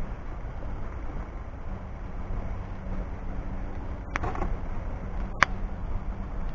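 Wood fire burning with a low, steady rumble, and two sharp pops from the burning wood, about four seconds in and again a second later, the second the louder.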